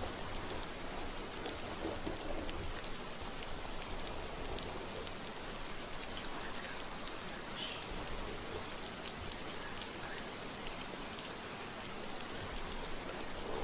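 Steady rain falling, an even hiss of rain on a surface.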